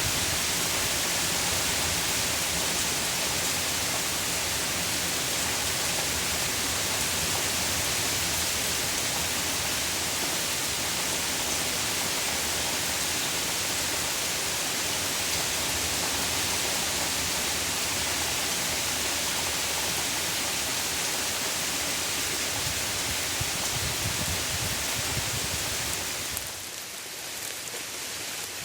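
Heavy rain pouring down in a steady hiss, easing somewhat about 26 seconds in.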